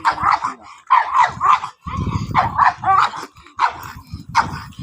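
Puppy barking in a rapid string of short, sharp barks and yips, about two or three a second.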